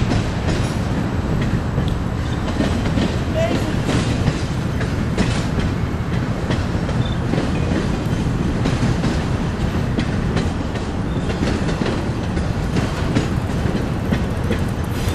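A train running on rails: a steady rumble with the clickety-clack of wheels over rail joints.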